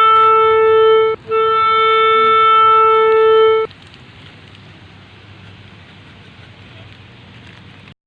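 A long held musical note at one steady pitch, reedy like a wind instrument, broken by a short gap about a second in and then cut off abruptly a little past the middle, leaving only faint hiss.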